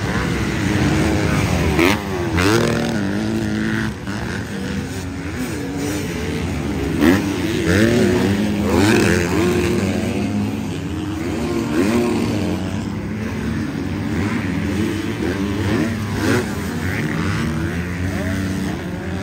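Several motocross bikes' engines revving and shifting, overlapping, their pitch rising and falling again and again.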